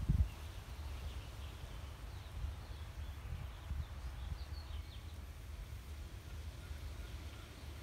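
Faint, scattered bird chirps over a steady low rumble, with a soft low thump just after the start.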